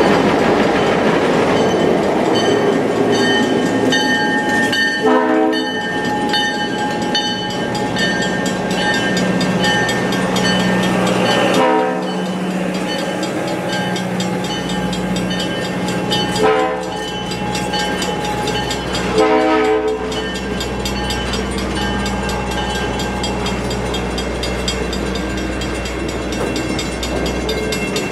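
Passenger train rolling slowly through a grade crossing, with steady wheel and car rumble and clacking over the crossing. The crossing bell rings in a fast, even rhythm, and the diesel locomotive's horn gives four short blasts spread through the passage.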